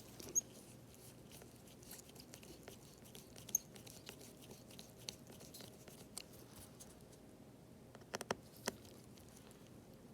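Faint small clicks and taps of a precision screwdriver and tiny screws against the iPad's metal shield plate. There are two sharper clicks, about half a second and three and a half seconds in, and a quick run of four clicks near the end.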